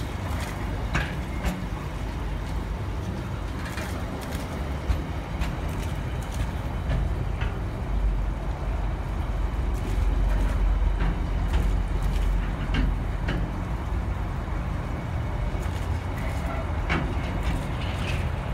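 Container flat wagons of a freight train rolling past: a steady low rumble with scattered clicks and knocks from the wheels on the rails.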